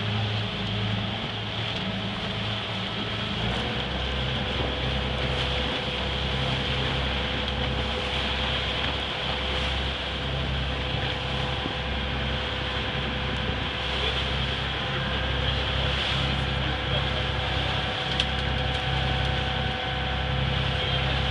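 A boat's engine running steadily on board: a low drone with a faint steady whine, under an even hiss.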